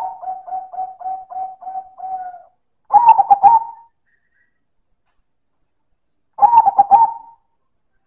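Zebra dove (perkutut) cooing loudly. It ends a long run of short, evenly spaced coos at about four a second, then gives two short rolling coo phrases a few seconds apart.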